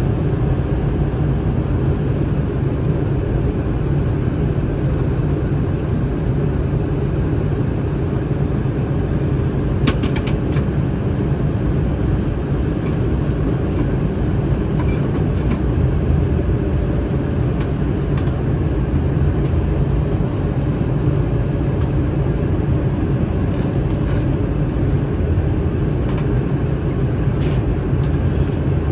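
Steady low roar of an Airbus A319 in flight heard from inside the cabin, airflow and CFM56 engines together. A thin high steady tone sits above it, with a few faint clicks about ten seconds in and again near the end.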